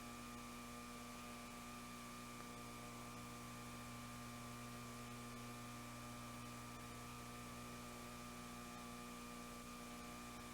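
Steady, faint electrical mains hum with a low buzz and a thin higher tone, unchanging throughout.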